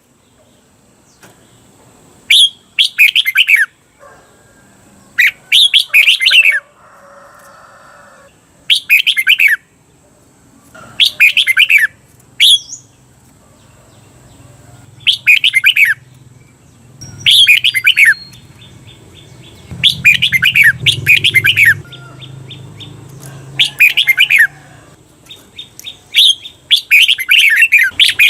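Red-whiskered bulbul singing: loud, short phrases of quick descending whistled notes every two to three seconds, several of them given twice in quick succession. This is the doubled 'เบิ้ล' song used as a training call for caged bulbuls.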